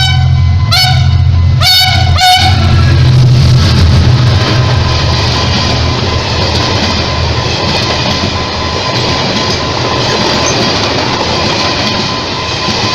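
Train: a few short horn toots in the first couple of seconds over a locomotive's low steady drone, then the loud, even noise of the train running on the rails.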